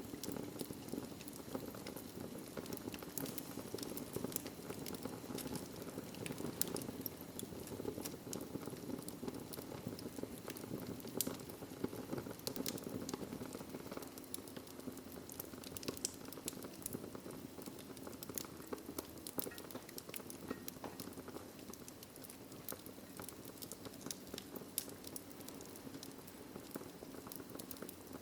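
Wood fire burning in a fireplace: a steady low hiss of flames with many small crackles and pops at irregular moments.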